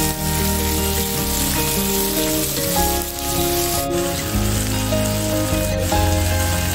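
Background music with a steady bass line, over the hiss of chopped vegetables sizzling as they sauté in oil in a kadai.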